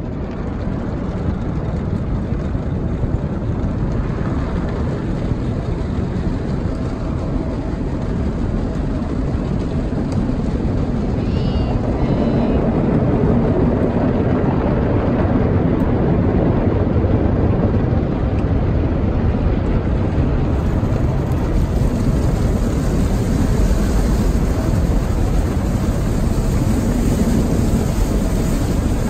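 Automatic car-wash tunnel at work on the car: a loud, steady rush of spraying water and machinery, heard from inside the car. It grows a little louder over the first few seconds.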